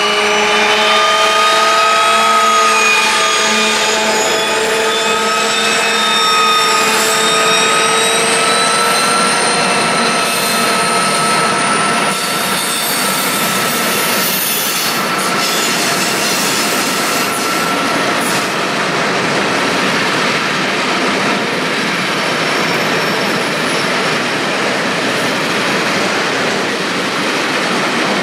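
Soviet-built Ludmilla-type diesel locomotive (DR class 231/232) running under power with a whining engine note that climbs slowly in pitch. About twelve seconds in, this gives way to a long train of loaded flat wagons rolling past with steady wheel and rail noise.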